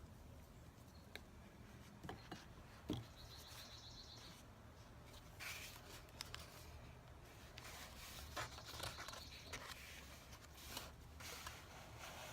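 Quiet handling of collage paper: scattered faint rustles and light clicks over a low hum, the loudest click about three seconds in.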